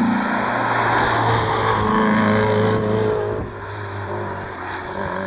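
Rally car engine running hard on the stage, loud at first and dropping in level about three seconds in as the car moves away.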